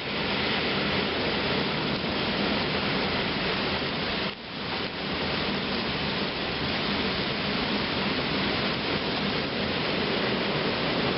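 Heavy thunderstorm rain pouring down in a steady dense hiss, briefly dipping about four seconds in.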